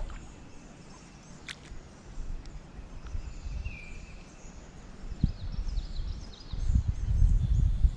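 Birds chirping and calling in short high notes over creekside ambience. There is one sharp click about a second and a half in, and a low rumble builds near the end.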